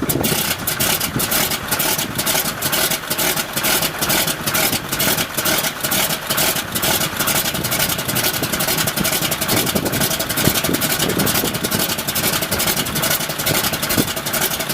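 Big old piston aircraft engine running at idle, its exhaust a fast, slightly uneven string of pops.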